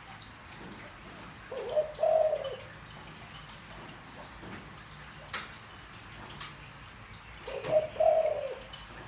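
Spotted dove cooing in a deep voice: two coo phrases about six seconds apart, each a short note followed by a longer arching one.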